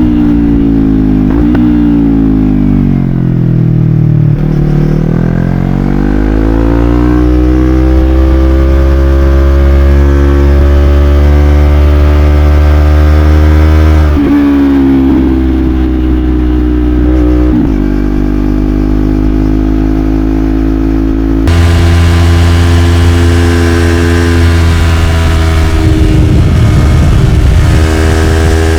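Yamaha YZF-R3's parallel-twin engine through an Arrow Pro-Race slip-on exhaust, ridden hard. The pitch drops over the first few seconds, then climbs steadily. It breaks off briefly twice as gears change, typical of quickshifter upshifts.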